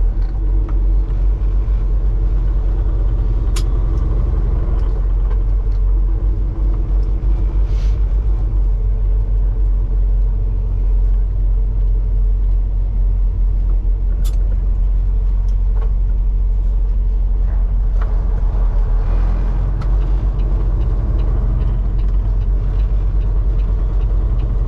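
Semi truck's diesel engine and road noise heard inside the cab while driving at steady speed: a continuous low drone, with a few brief sharp clicks.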